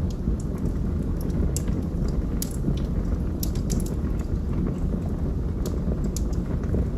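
Log fire burning: a steady low rumble of flames with scattered sharp crackles and pops from the burning wood, several of them grouped a couple of seconds in.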